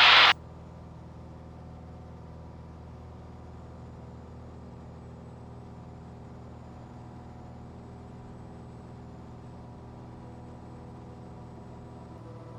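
Cessna 182RG's six-cylinder Lycoming engine and propeller droning steadily at climb power, heard in the cabin, just after the landing gear and flaps have been raised. Its tone shifts slightly near the end.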